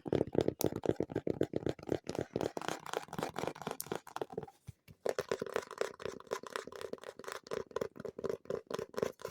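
Very fast fingertip tapping on objects, about eight to ten taps a second. After a brief pause about halfway through, it switches to a more hollow, ringing object, then stops near the end.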